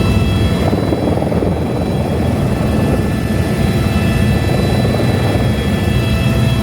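Helicopter in flight, with steady rotor and engine noise and a pulsing low rumble. A set of high whining tones over it drops away about a second in and returns near the end.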